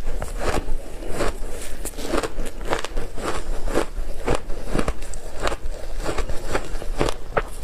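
Frozen ice being bitten and chewed close to the microphone: a steady run of sharp, crisp crunches and cracks, about two a second.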